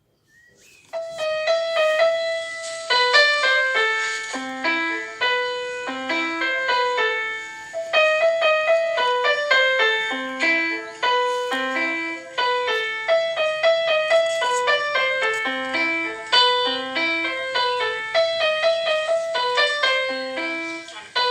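Electronic keyboard playing a repeating melody, single notes struck one after another in an even rhythm.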